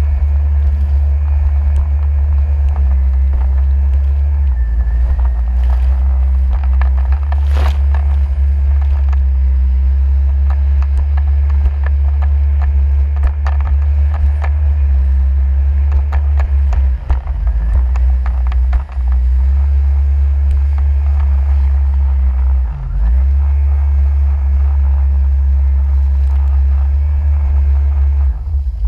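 Jet ski ride heard as a steady, heavy low rumble with scattered sharp clicks, easing briefly a few times past the middle.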